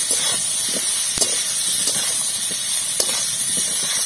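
Potatoes and sliced onion frying in hot oil in a metal kadai, sizzling steadily, while a metal spatula stirs them with scattered scrapes and clinks against the pan, the sharpest about a second in.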